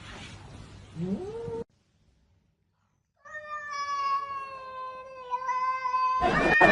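Domestic cat calling: a short rising meow about a second in, then, after a break, one long drawn-out meow lasting about three seconds that sinks slightly in pitch. A burst of loud noise cuts in just before the end.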